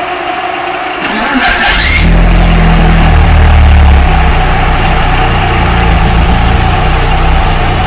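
1996 Eagle Talon TSi's freshly built turbocharged 2.0-litre four-cylinder being cranked and starting: it catches about two seconds in, runs briefly at a higher speed, then settles to a steady idle. This is the engine's first start on new 1000cc injectors, during break-in.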